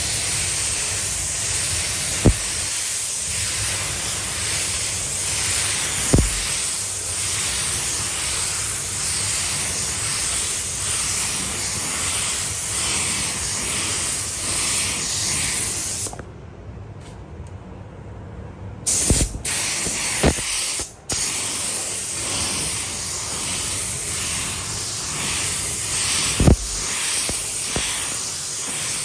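Paint spray gun hissing steadily as it sprays. The hiss stops for about three seconds a little past the middle, then resumes, with a few short knocks scattered through.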